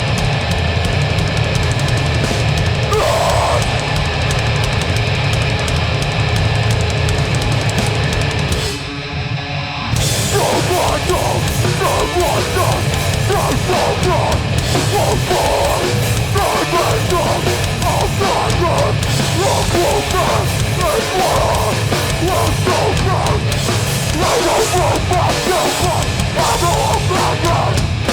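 Live hardcore band playing loud, heavy music with drums and distorted instruments. The music drops out briefly about nine seconds in, then comes back in with a choppy, rhythmic riff.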